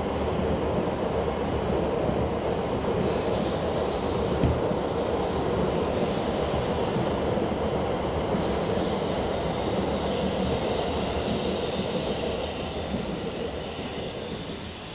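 E7 series Shinkansen train running into the station on a test run: a steady rumble of wheels and running gear that fades over the last few seconds.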